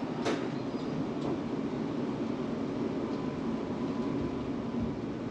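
Steady rumble and hum inside a Melbourne tram cabin, with a short click just after the start.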